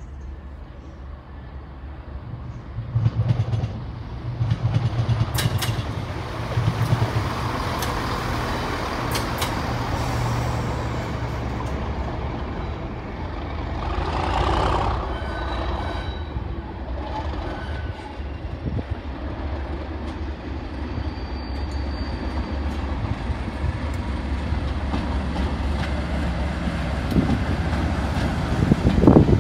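Diesel train running through the station, its engine a steady low drone with a pulsing throb for the first several seconds, a few sharp clicks, and a brief rushing swell about halfway through.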